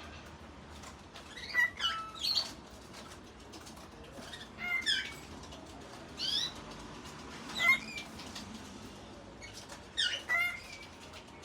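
Cockatiel chirping: short calls that sweep in pitch, coming in little groups every second or two.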